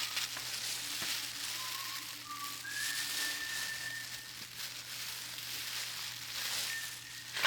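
A person whistling a slow tune faintly: a few held notes, the longest a high note about three seconds in, with gaps between them. Under it runs a steady hiss.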